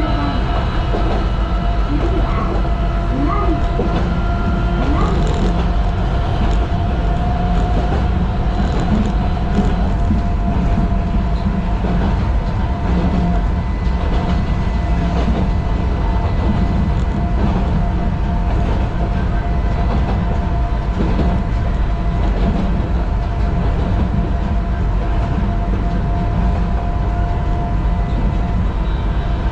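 Sangi Railway Hokusei Line 762 mm narrow-gauge electric train running along the track, heard from the driving cab: a steady rumble of wheels on rail with a thin steady whine over it.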